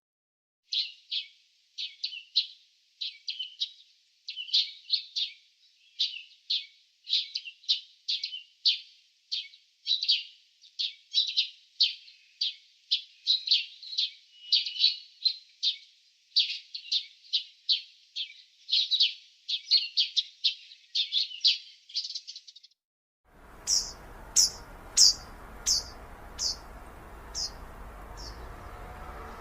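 Bird chirping: a long run of quick, sharp chirps, two or three a second, over a dead-silent background. A little over 23 seconds in this cuts to a background hiss, and a higher series of about eight chirps follows, spacing out as it goes.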